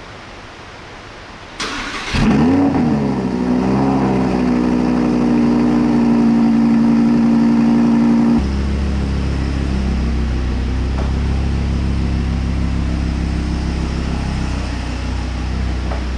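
Car engine cranked by its starter and catching after about half a second, flaring up and settling into a steady fast idle. About six seconds later the idle steps down to a lower, deeper note.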